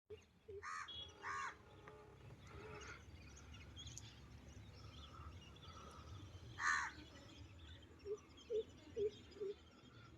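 Crows cawing: four harsh caws, three in the first few seconds and a louder one near the middle, over a low steady outdoor rumble. Near the end comes a quick run of four short, low sounds.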